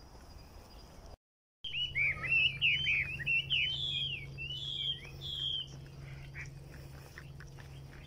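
A small bird's rapid chirping calls, quick up-and-down notes in a dense run lasting about four seconds, then thinning to scattered chirps, with a faint steady low hum underneath. The sound drops out completely for a moment about a second in.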